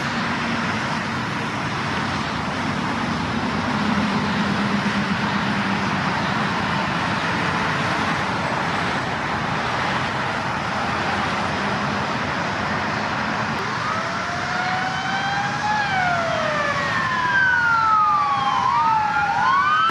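Steady rushing background noise, then from about two-thirds of the way in a siren wailing in rising and falling sweeps, with more than one siren tone crossing.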